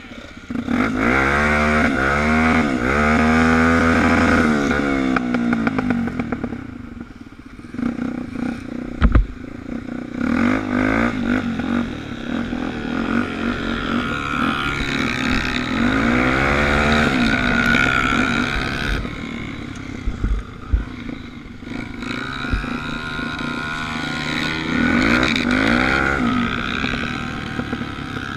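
Suzuki DR350 single-cylinder four-stroke trail bike engine heard from on board, revving up and easing off several times as it pulls through the gears. A few sharp knocks come in between.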